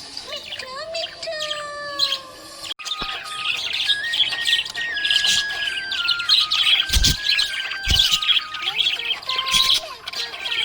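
Budgies chirping and warbling in a busy, rapid chatter of high twittering notes, after a few seconds of gliding tones that end in an abrupt cut about three seconds in. Two dull low thumps come about seven and eight seconds in.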